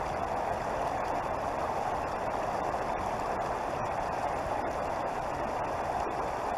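Creek water flowing steadily, a constant rushing babble.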